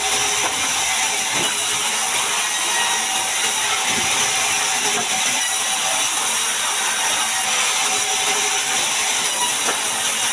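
Band sawmill sawing a large mahogany log, with a steady, unbroken machine noise throughout.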